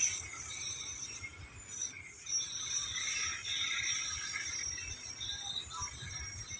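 Distant rumble of a fuel tank train moving along the line, under a steady high chirping of insects.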